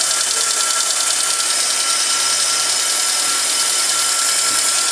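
Fiat Palio engine idling with the air filter removed, a steady intake hiss with a thin constant whistle over a low hum. This is the noise the owner is showing, which he takes to be normal with the filter off.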